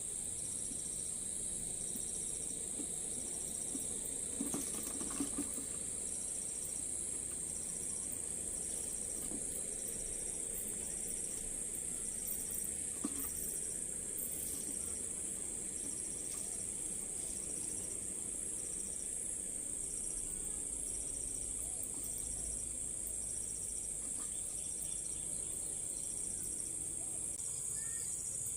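Insects chirring: a steady high-pitched drone with a second insect call pulsing about once a second over it. A few faint knocks come around four to five seconds in and again at about thirteen seconds.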